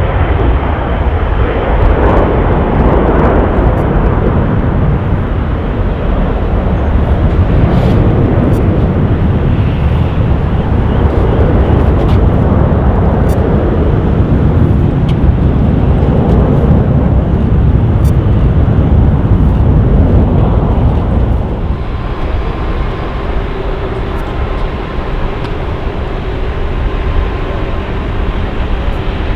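Jet airliner engines running loudly with a deep rumble. About twenty-two seconds in, the sound drops to a quieter, steadier engine noise carrying a steady whine.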